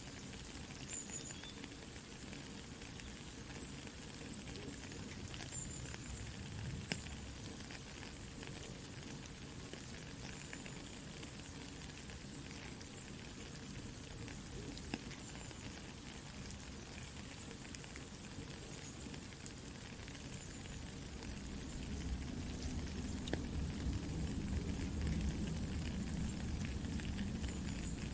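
Soft rain pattering mixed with a crackling campfire: a steady hiss dotted with small pops and ticks. A low rumble grows louder about three-quarters of the way in.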